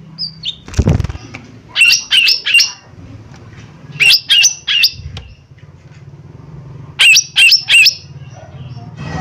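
Lesser green leafbird (cucak ijo mini) giving sharp, loud calls in quick groups of three, three groups a couple of seconds apart. A dull low thud comes about a second in.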